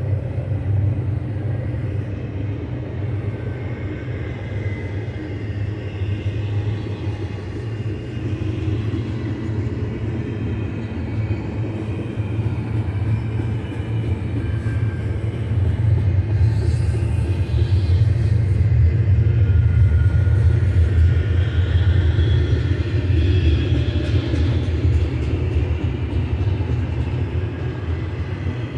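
Double-stack container train's well cars rolling past close by: a steady low rumble of steel wheels on rail, swelling louder about two-thirds of the way through.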